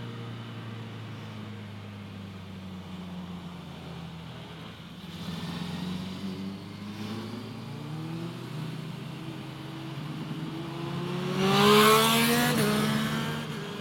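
Motorcycle engine easing off, then accelerating through several gears, its pitch rising in repeated steps. It is loudest near the end, with a rushing noise, just before it drops back.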